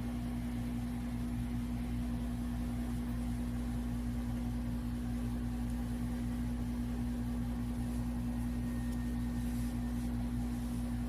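Jisulife bladeless neck fan running steadily: a constant motor hum with an even rush of air.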